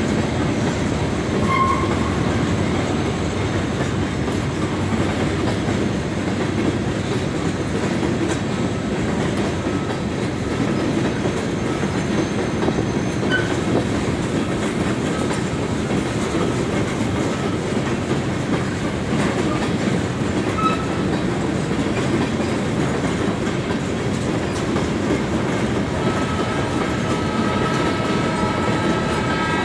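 Freight train of about 50 cars rolling steadily past, with wheels clacking over the rail joints and a few brief squeals. A steady tone joins near the end.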